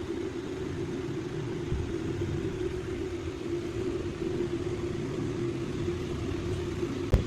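Handheld electric router running steadily at a constant high speed, with a sharp click just before the end.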